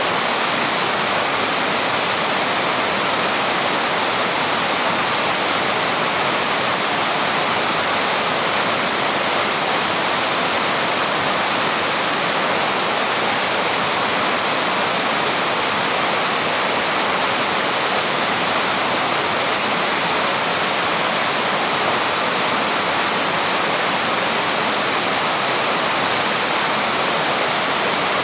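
Small waterfall rushing: a steady, unbroken hiss of falling water.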